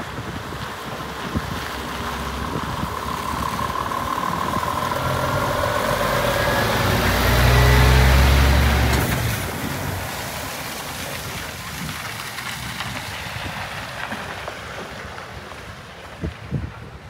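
Scania G500 tipper truck's diesel engine driving past: the sound builds, is loudest about eight seconds in, then fades away with a falling pitch.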